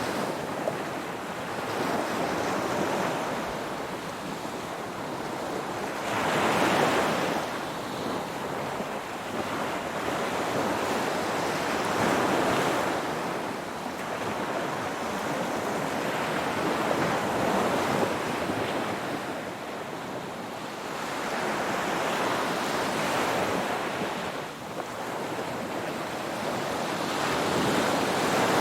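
Ocean surf: waves washing in, swelling and falling back in surges about every five seconds over a steady hiss of water.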